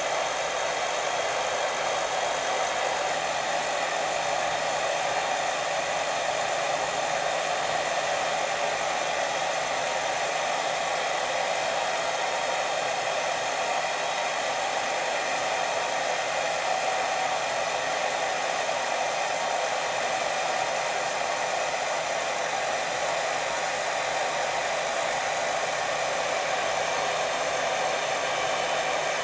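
Steady white noise for sleep: an even, unbroken hiss that does not change.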